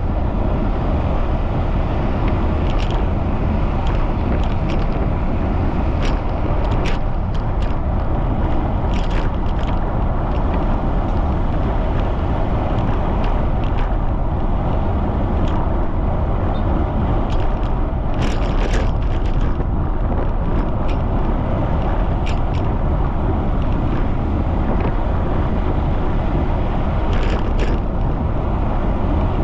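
Wind buffeting the microphone of a cyclist riding at speed in strong wind, a steady low rumbling rush, with scattered short clicks and ticks now and then.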